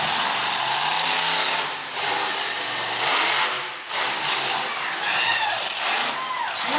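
Monster truck engine running and revving, its pitch rising and falling, with a steady high tone for about a second partway through.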